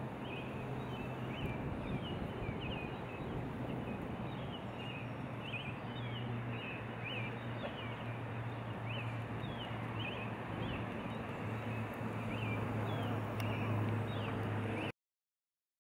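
Outdoor nature ambience: a small bird chirping over and over in short calls, about one or two a second, over a steady rushing noise and a low hum.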